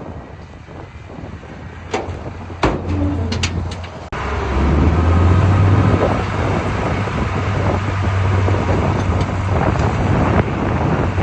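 Heavy diesel earthmoving machinery running with a deep steady rumble that cuts in suddenly about four seconds in. Before it, a quieter stretch with a few sharp knocks.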